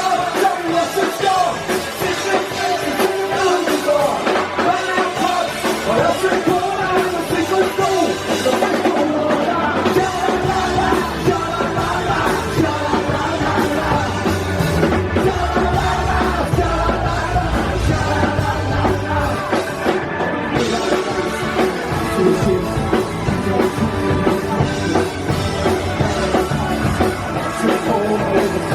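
Live rock band playing a song loudly, with singing over drums and guitars; the bass and drums grow heavier about a third of the way in.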